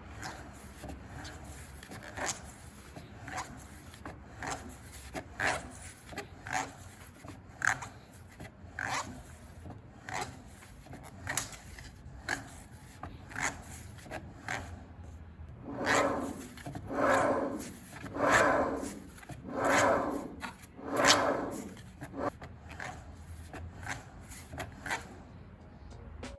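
Repeated rubbing or scraping strokes by hand, about one a second, with about five longer, louder strokes a little past halfway.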